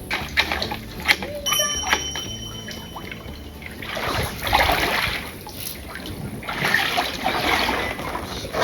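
Water splashing and sloshing, in two louder swells a few seconds apart.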